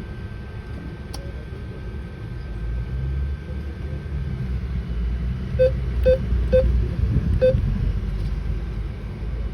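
Four short, identical beeps from an ATM keypad as its buttons are pressed, the last after a slightly longer gap, over a steady low rumble of street traffic.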